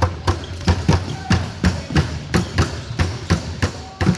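Basketballs bouncing on a gym floor, a quick irregular run of thuds about four a second, with a few short sneaker squeaks.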